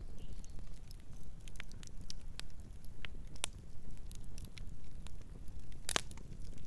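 Wood fire burning with a low steady rumble and frequent small crackles and pops, and one louder crack about six seconds in.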